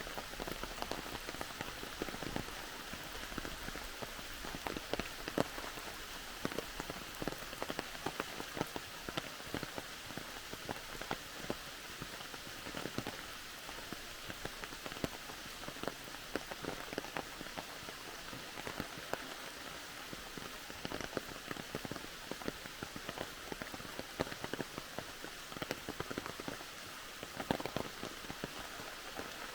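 Steady rain falling, with many sharp drop hits close by scattered throughout.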